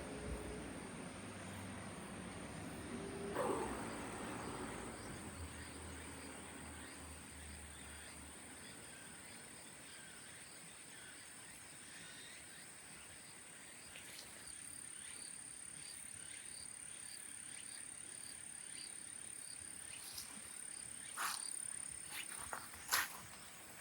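Insects trilling steadily in a high thin tone, with a low rumble fading out over the first few seconds and a few sharp clicks near the end.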